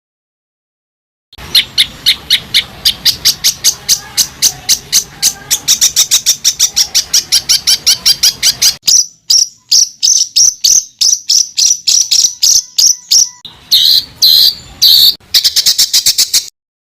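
A songbird singing a rapid-fire masteran song: a fast train of sharp, high repeated notes, about six a second, then slower notes and a few harsher phrases. The song starts a little over a second in and stops shortly before the end.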